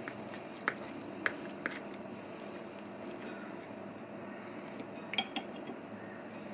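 Cutlery clinking against a dinner plate, a few short light clinks spread out, over a steady low room background.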